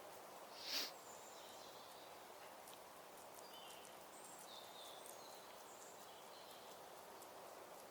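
Faint forest ambience: a steady low hiss with scattered short, high bird chirps, and one brief louder rush of noise about a second in.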